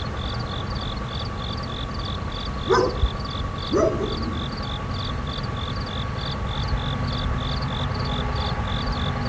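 Outdoor ambience with a steady whirr over a low rumble, and a high chirp pulsing about three times a second. Two short, louder sounds stand out about three and four seconds in.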